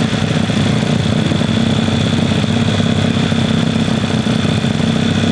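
Pit bike's single-cylinder four-stroke engine running steadily at idle, with no revving.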